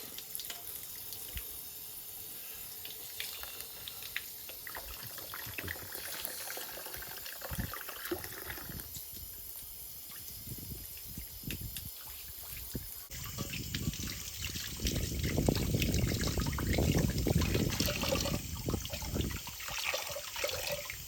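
Water running from a tap and splashing as something is washed by hand. The flow changes about two-thirds of the way through and is loudest for a few seconds near the end.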